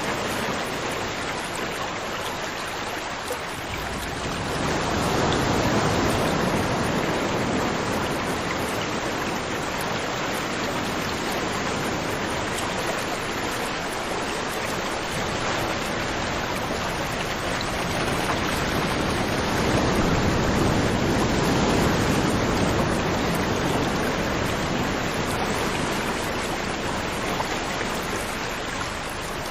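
River water flowing and rushing over rocks, a steady wash of noise that swells louder twice.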